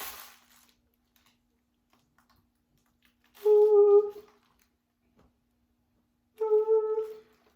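A dog whining twice, each a drawn-out, steady-pitched whine of about a second, the second near the end.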